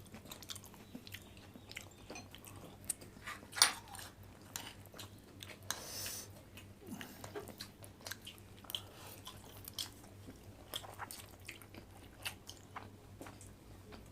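People biting and chewing food close to the microphone: irregular soft crunches and wet mouth clicks, with one sharper click about three and a half seconds in and a brief hiss near six seconds.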